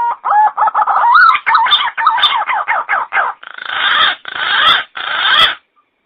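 Pink-necked green pigeon calling: a quick run of whistled notes that warble up and down, then three harsh rasping bursts, stopping about five and a half seconds in.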